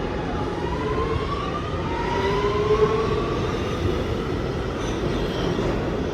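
New York City subway train in motion, a steady rumble of wheels on rail with the electric traction motors' whine rising slowly in pitch as the train picks up speed.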